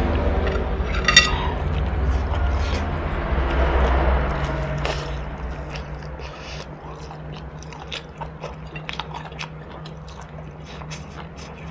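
Close-up eating sounds: biting and chewing on noodles and a chunk of fatty pork, full of small wet mouth clicks. There is one sharp clink of the spoon against the ceramic bowl about a second in, and the chewing is louder in the first half and softer near the end.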